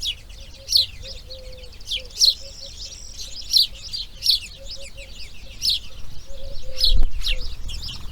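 Bird chirping: a high, short call repeated about every half second to a second, over a faint, fast row of lower ticking calls. A low thump comes about seven seconds in.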